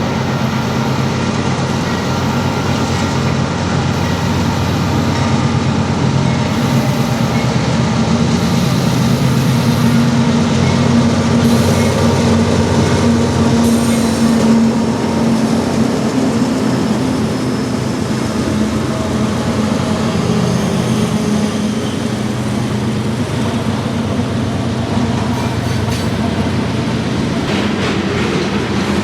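Diesel-hauled freight train passing close by, its locomotive engines running with a steady low drone over the rumble of wheels on rail. It is loudest about halfway through.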